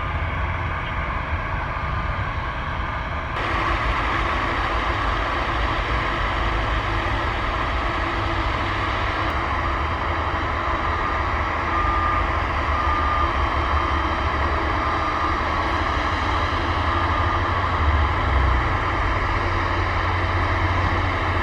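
Steady low rumble and hiss of a moving vehicle heard from inside it, growing louder about three seconds in and then holding steady.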